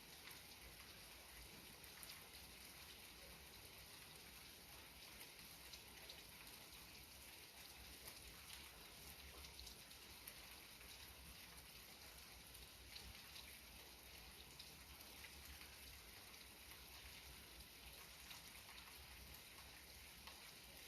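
Faint, steady light rain, with many small drops ticking irregularly on a surface.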